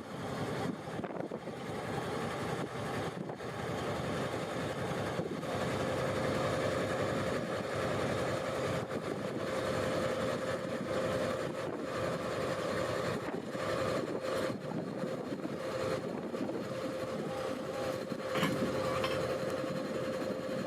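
Excursion train running along the track, a steady rumble with scattered knocks, and a steady tone that joins about five seconds in and holds.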